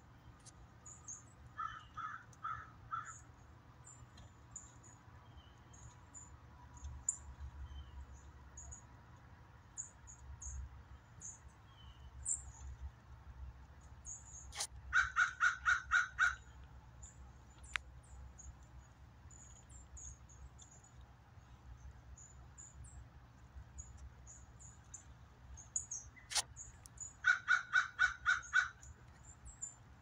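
Wild birds calling. Twice, a bird gives a quick run of about six loud, evenly spaced calls, with a softer run of four near the start. Thin, high chips from small birds come and go throughout.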